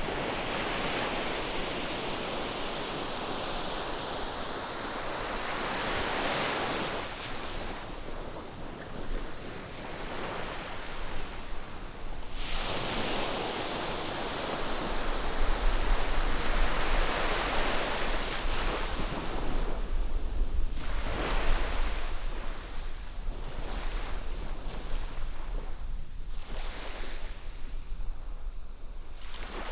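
Ocean surf breaking and washing up a sandy beach in slow surges that swell and fade, a big wave rushing in suddenly about twelve seconds in. Wind on the microphone adds a low rumble in the middle stretch.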